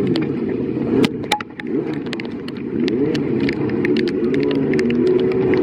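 Racing motorcycle engines on the circuit, several engine notes rising and falling in pitch as they accelerate and shift, with sharp clicks scattered throughout.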